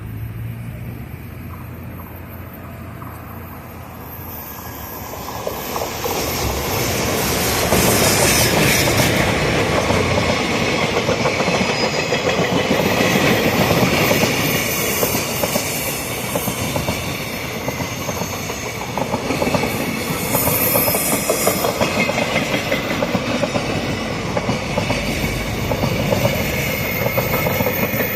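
JR Freight container train with an EF210 electric locomotive passing through a station, its wheels clattering rapidly over the rail joints. It grows louder from about five seconds in as it arrives and stays loud as the wagons run past.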